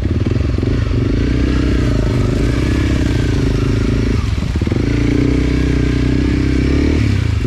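Enduro dirt bike engine running hard under load. The revs drop briefly about four seconds in, then pick up again.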